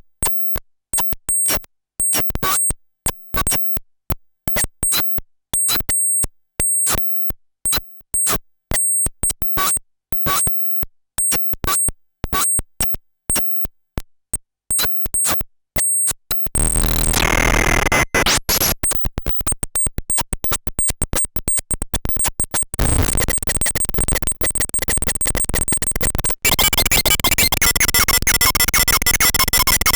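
Paratek SATURN Eurorack square-wave noise module putting out irregular, sparse clicks and short high pips. About halfway through it switches to a dense, gritty electronic noise that shifts texture a few seconds later and again near the end.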